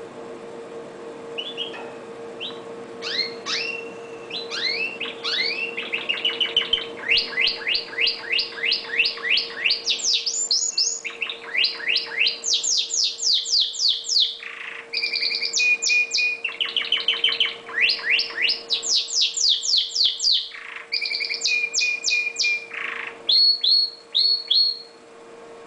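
Red factor canary singing a long song of rapid trills, rows of quick falling notes at changing speeds broken by a few short held whistles. It starts about a second and a half in and stops shortly before the end, over a steady low hum.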